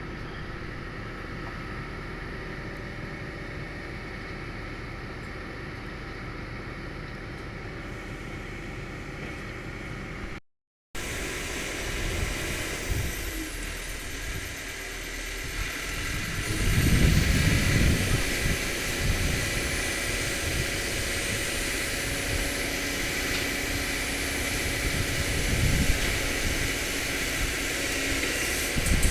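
Hydraulic excavator's diesel engine running steadily with a hydraulic whine. The sound cuts out for a moment about ten seconds in, then comes back louder, with two deep surges in engine load later on.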